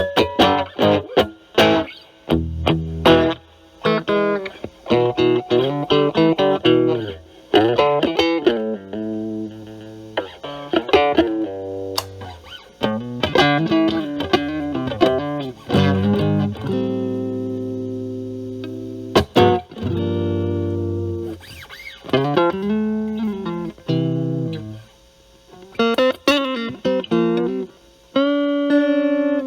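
Electric guitar played through a Metal Pedals Rawhide overdrive pedal with its gain set high, a Stratocaster's single-coil pickups into a Marshall Valvestate amp's clean channel. It plays a lead line of quick picked notes and a few longer held notes, with string bends near the middle.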